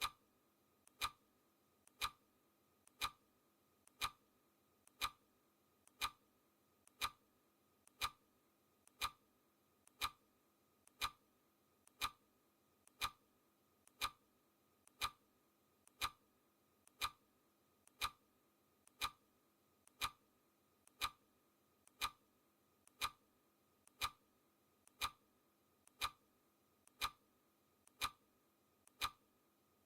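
Clock ticking sound effect: a steady, even tick about once a second.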